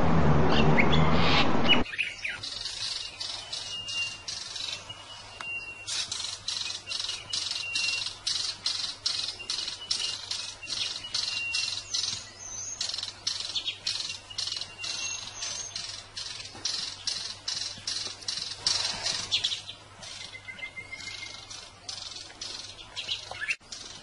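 Small bird chirping rapidly: many short, high-pitched chirps in quick succession with a few thin whistled notes mixed in. It starts abruptly about two seconds in.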